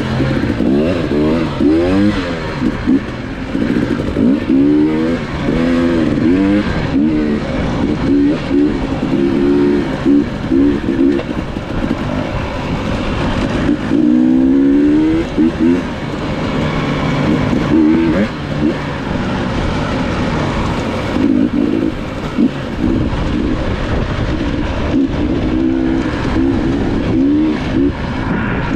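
Dirt bike engine being ridden hard, revving up and falling back over and over as the throttle is worked and gears change.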